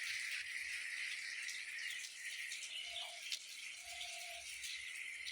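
Monsoon rain falling steadily, with scattered drips, over a continuous high-pitched insect chorus. Short animal calls come about three seconds in and again around four seconds.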